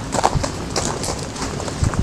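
Footsteps walking at about two steps a second, each step a short scuff.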